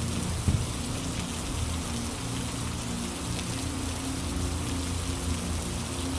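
Steady rain falling, an even hiss of drops. There is a single low thump about half a second in.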